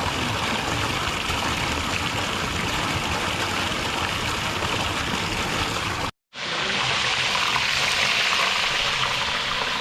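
Flowing water, a steady rushing hiss like a stream. It breaks off abruptly for a moment about six seconds in, then a brighter, similar steady hiss follows.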